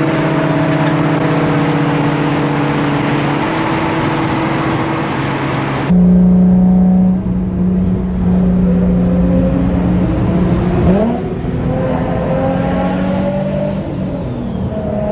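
Turbocharged Nissan 350Z's 3.5-litre V6 running while driving, with a steady engine note over road and wind noise. The sound changes abruptly about six seconds in to a lower, steadier engine note, and the revs rise and fall briefly around eleven seconds.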